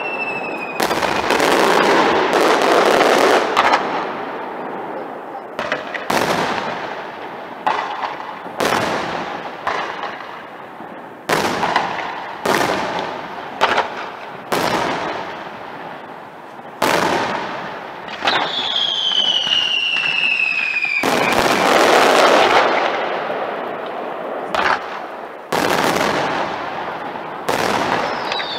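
Aerial fireworks shells bursting overhead, more than a dozen sharp bangs at uneven intervals, each trailing off in a noisy echo. Whistles falling in pitch sound near the start, about two-thirds of the way in, and again at the end.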